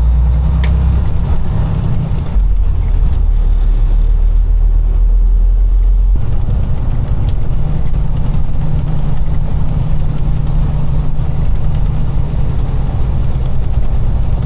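Semi-truck diesel engine running as the truck drives, heard from inside the cab as a steady low rumble; the engine's low note changes about six seconds in.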